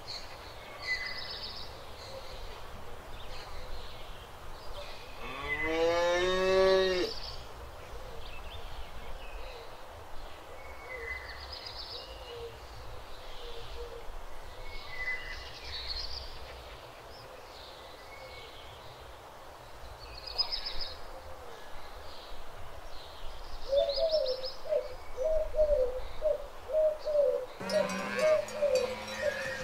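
A cow moos once, a long call that rises and falls about six seconds in, and another moo begins near the end. Small birds chirp on and off throughout, with a quick run of short repeated notes in the last few seconds over a steady low rumble.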